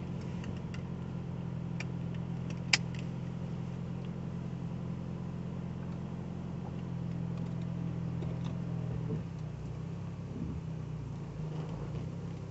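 A 1985 Cadillac Cimarron's engine idling steadily, heard from inside the cabin. A single sharp click comes about three seconds in, and the engine note changes about nine seconds in.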